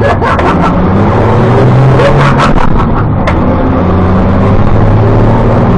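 Diesel engine of a short bus running loud, its low note stepping up and down in pitch, with a few sharp clicks on top.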